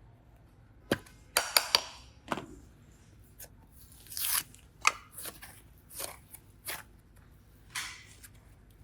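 Hands handling modelling clay and slime: irregular sharp clicks and crackly, tearing swishes.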